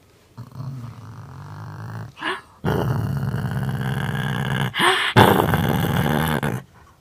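Pet dog growling in three long, drawn-out growls with short breaks between them; the first is quieter and the second and third louder.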